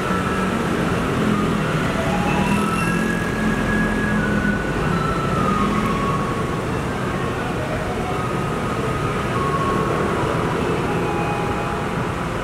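Taiwanese garbage truck's loudspeaker playing its electronic melody, short held notes following one another, over the truck's engine running.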